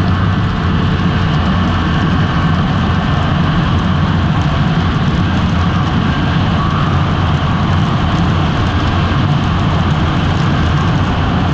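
Snowmobile engine running steadily, with no revving up or down.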